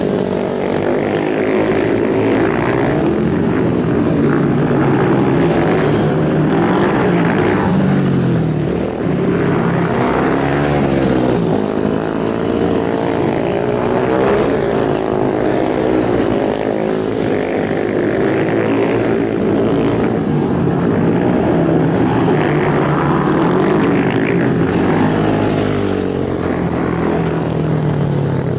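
Several racing motorcycle engines running together at high revs, their pitches rising and falling as they rev and shift.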